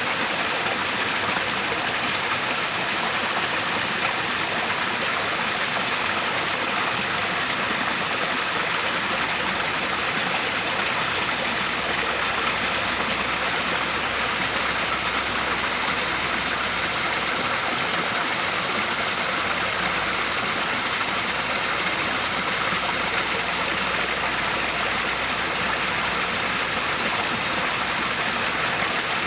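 Waterfall, with water rushing and splashing in a steady, unbroken wash of noise.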